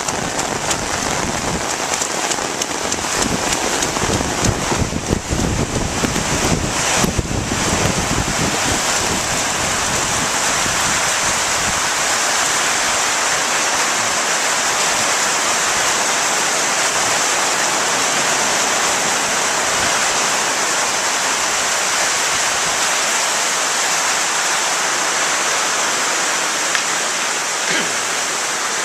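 Rain falling steadily, an even hiss, with a low rumble mixed in during roughly the first eight seconds.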